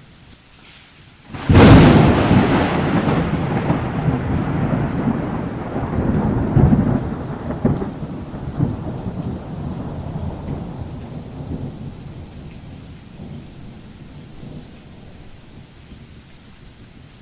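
A thunderclap cracks suddenly about a second and a half in, then rolls and rumbles as it fades over about ten seconds, with a couple of further rumbles partway through. Steady rain goes on underneath.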